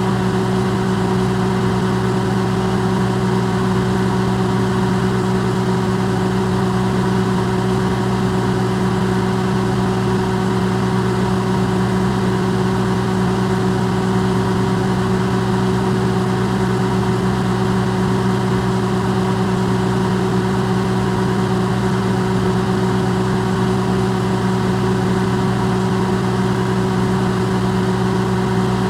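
Electrolux microwave oven running, recorded amplified: a steady, unchanging hum made of a low drone and several constant tones over an even hiss.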